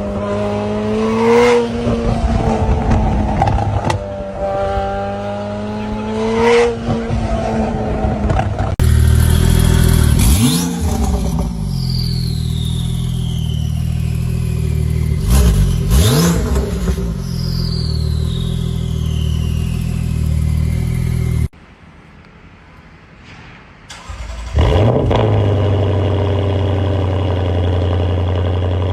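Supercar engines and exhausts in several cut-together clips. The first engine revs up and down repeatedly. After a cut about nine seconds in, a deeper-running car blips its throttle twice over a falling whine. Near the end an engine fires with a quick rev and settles into a steady idle.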